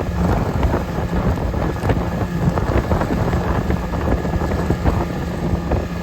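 Wind buffeting the microphone over the steady drone of a motorboat engine, as heard while riding on the water.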